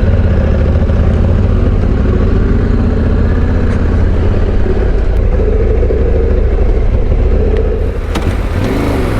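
Motorcycle engine running while riding, a steady loud rumble, with the engine note changing briefly about eight seconds in.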